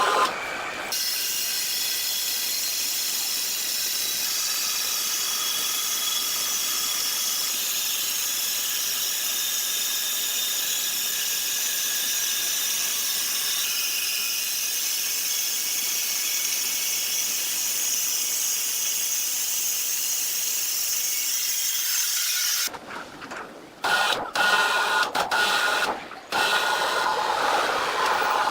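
Sawmill machinery running: a steady high hiss with faint whining tones, broken near the end by several abrupt drops and returns.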